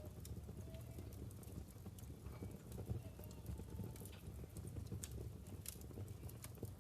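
Wood fire burning in a fireplace: a steady low rumble of the flames, with scattered sharp crackles and pops from the burning logs and a few faint, brief whistling tones.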